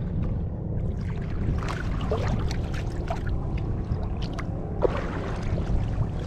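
Water splashing and lapping around an open canoe out on the loch, with scattered short splashes, over a steady low wind rumble on the microphone.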